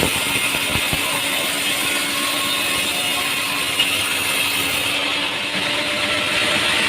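Sawmill machinery running steadily with a dense mechanical noise, with one sharp click near the middle.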